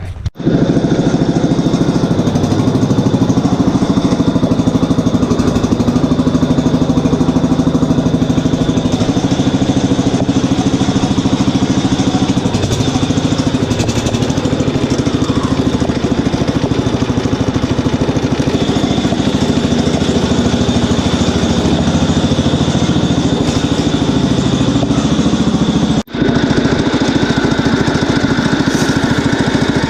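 A tractor engine running steadily close by, its pitch shifting now and then. The sound drops out abruptly twice, once just after the start and once near the end.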